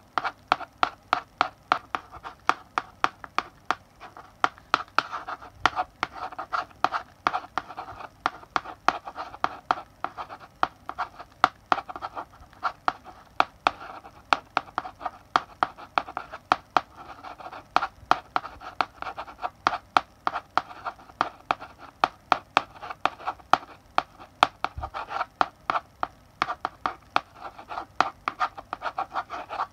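Chalk writing on a blackboard: a quick run of sharp taps as the chalk strikes the board, several a second, with a dry scratching between strokes.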